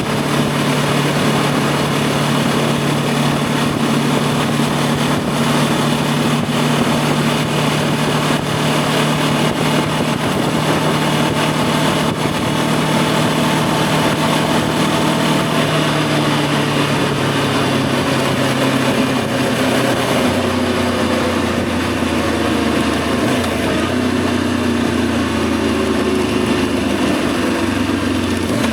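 Voge 525 DSX's parallel-twin engine running at a steady cruise, with wind noise over it. From about sixteen seconds in the engine note falls steadily as the bike slows, and it drops to a lower note about twenty seconds in.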